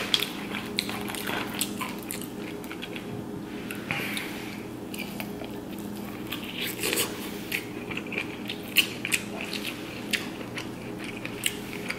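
Close-miked eating: chewing with many sharp, crisp crunching clicks from fried soft-shell crab, and bites into buttered corn on the cob.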